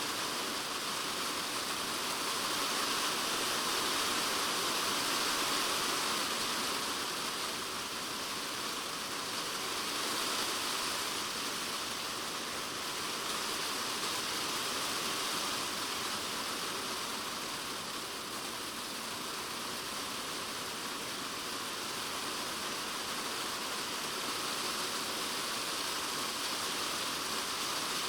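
Rain drumming on a polycarbonate shed roof in a typhoon, a dense steady hiss of drops that swells a little and eases again.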